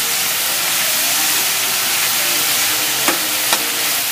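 Chopped onion, garlic, ginger and tomato sizzling in hot oil in a metal wok while being stirred with a metal spatula. Two sharp clicks of the spatula against the pan come about three seconds in.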